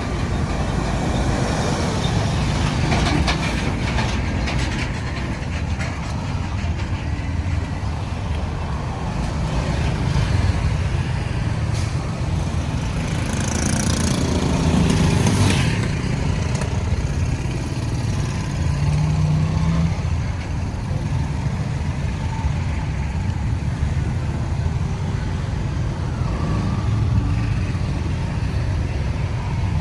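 Road traffic noise: the steady engine and tyre rumble of passing vehicles, swelling as one passes close about halfway through.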